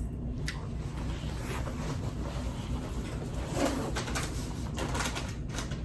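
A bird cooing softly once, about halfway through, over a steady low hum, with a few light clicks and rustles.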